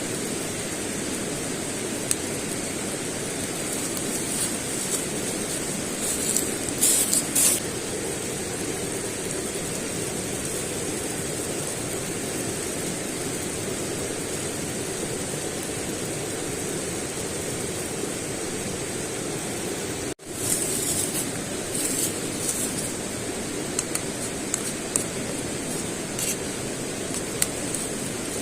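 Steady hissing noise with scattered crackles and pops, which drops out for a moment about twenty seconds in.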